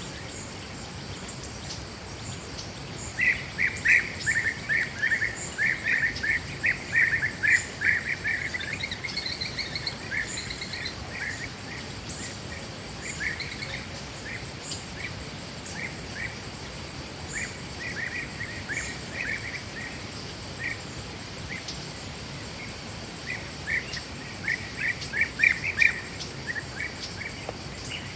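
A bird calling in fast runs of short chirps, densest about three to nine seconds in, then in scattered groups, over a steady background hiss of the woods.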